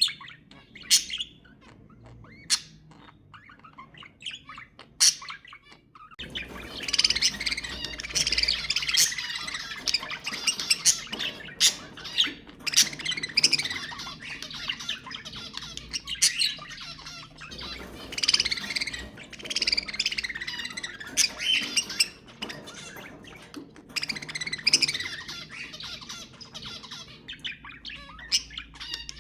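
Budgerigars chattering and warbling with sharp squawking calls. A few separate calls at first, then from about six seconds in a dense, continuous flock chatter.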